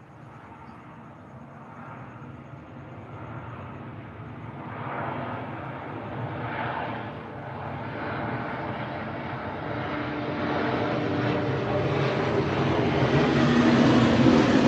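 An approaching engine drone, likely an aircraft, growing steadily louder and brighter, loudest near the end.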